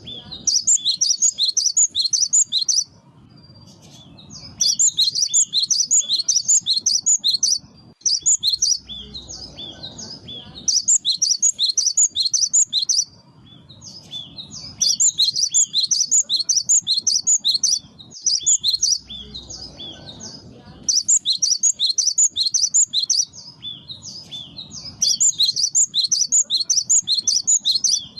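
Cinereous tit (gelatik batu) singing: bursts of rapid, repeated high notes lasting two to three seconds each, separated by short pauses, as used in a lure call.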